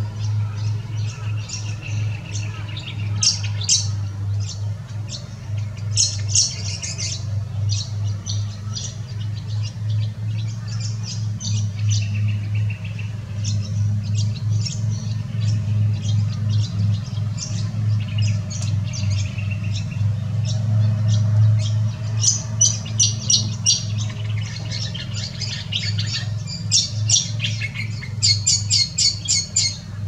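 Birds chirping and squawking in quick clusters of short, high calls, over a steady low hum.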